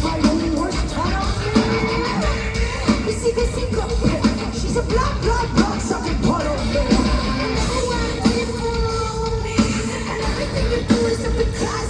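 Heavy metal song with a singer's vocals over a dense band, with a held note running through much of it.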